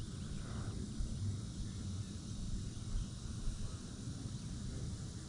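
Outdoor ambience: wind rumbling on the microphone, with a faint steady high hiss like insects behind it.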